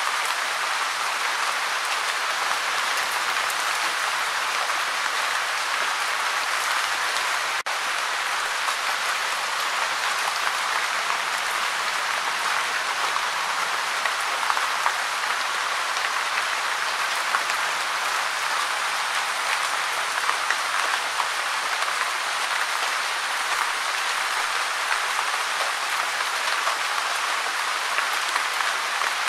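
Steady gentle rain: an even hiss of many small drops falling without let-up, with one split-second dropout about seven and a half seconds in.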